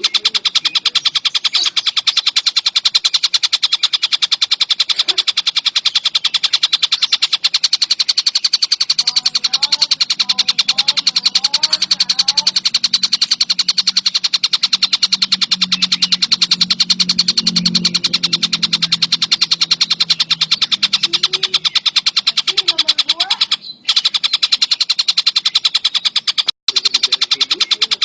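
Tengkek buto kingfisher calling without pause in a fast, even, rattling chatter, with two brief cuts near the end. A low hum sits underneath in the middle stretch.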